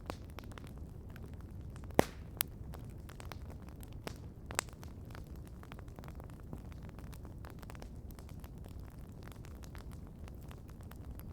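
Wood campfire crackling with a steady scatter of small ticks and a few sharp pops, the loudest about two seconds in.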